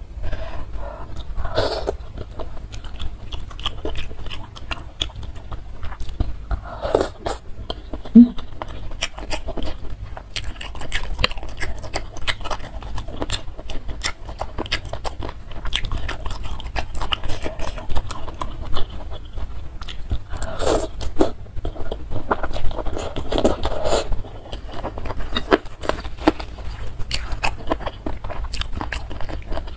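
Close-miked chewing of spicy instant noodles, meatballs and boneless chicken feet in soup: dense wet mouth clicks and smacks, with a few longer, louder slurps.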